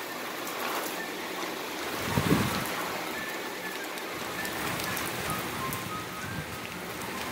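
Steady heavy rain falling from a thunderstorm, with faint music playing and a brief low thump about two seconds in.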